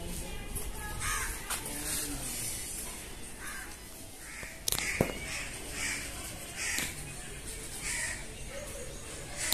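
A bird calling over and over, short calls about once a second from about a third of the way in, with one sharp click near the middle.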